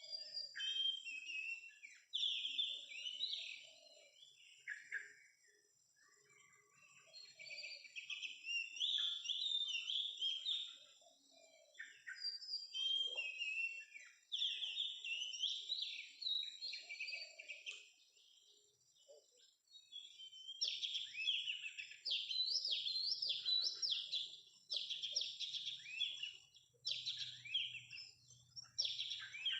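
Oriental magpie-robin singing in bursts of quick, varied whistled phrases, denser and louder in the last third, over a steady high thin tone.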